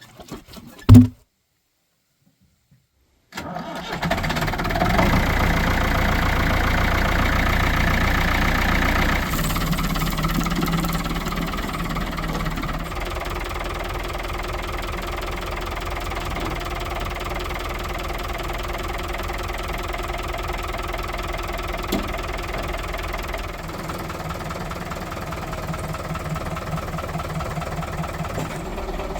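A single sharp thump about a second in, then an engine starts a little over three seconds in, runs fast for several seconds, and settles to a lower, steady idle.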